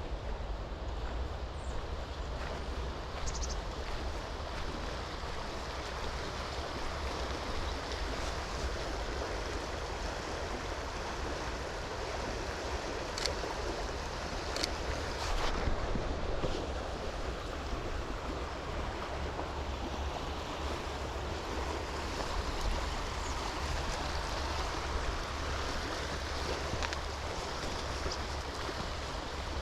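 Steady rushing ambience of rain, wind in the trees and flowing river water, with a low rumble of wind on the microphone and a few faint ticks.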